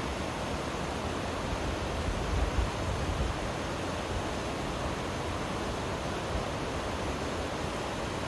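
River water rushing steadily over a streambed, an even hiss. A low rumble swells briefly a little over two seconds in.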